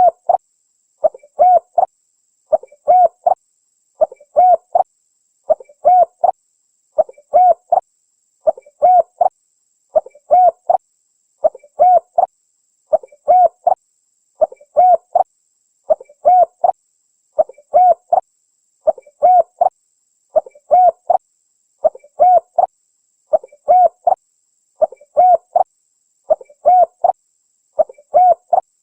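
Spotted dove (tekukur) cooing call, a short phrase of a few low notes repeated with clockwork regularity about every one and a half seconds. It is used as a lure to call tekukur in the wild.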